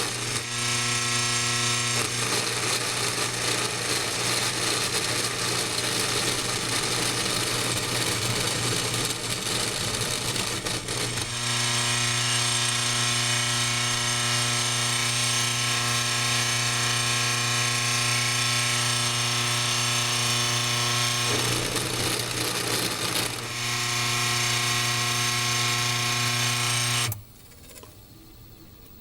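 Washing machine motor rigged as a CNC spindle with an ER16 collet, running with a steady, loud hum. There are rougher, noisier stretches from about two to eleven seconds in and again around twenty-two seconds. It cuts off suddenly about twenty-seven seconds in.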